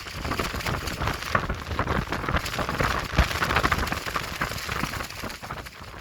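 Clear plastic tent sheeting flapping and crackling rapidly in strong wind, over a low wind rumble on the microphone; the gusts ease near the end.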